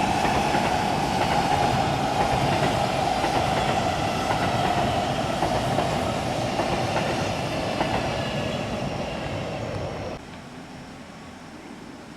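Train running past a railway level crossing: steady wheel-and-rail noise with a whine in it, slowly getting quieter, then dropping away suddenly about ten seconds in.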